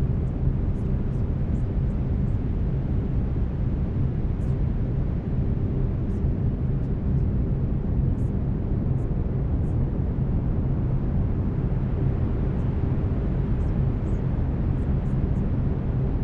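Steady brown noise, a deep even rush, with faint low steady tones of binaural beats under it.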